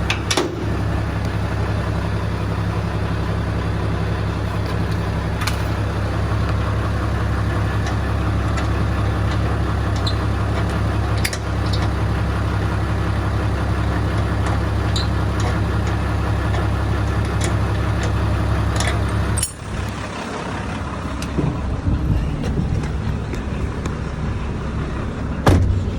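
A vehicle engine running steadily at an even speed, with a low hum. It cuts off abruptly about three-quarters of the way through, leaving quieter, uneven rumbling and a few knocks, one louder near the end.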